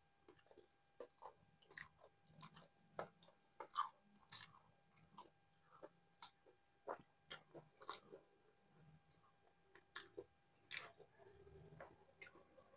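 Faint mouth sounds of a man chewing nihari and naan, close to a lapel mic: an irregular string of wet clicks and smacks.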